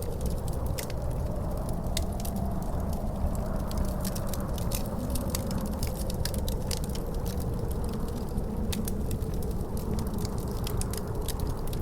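Wood fire crackling with frequent, irregular sharp pops, over a steady low wind rumble with a faint wavering howl.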